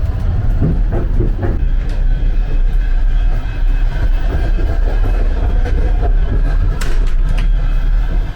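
Steady low rumble and clatter of a Soviet-era sleeper carriage running on the rails, with a few sharp clicks in the first two seconds and another about seven seconds in.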